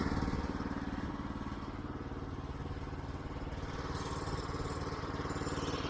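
The 9.5 hp engine of a Woodland Mills HM122 band sawmill running steadily at low speed. It drops to a quieter, even run just at the start and holds there.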